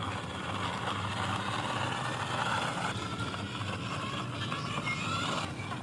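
Steady engine-like vehicle running noise, with a low hum underneath.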